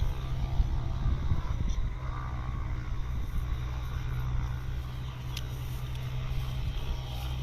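A steady low motor drone, even and unchanging.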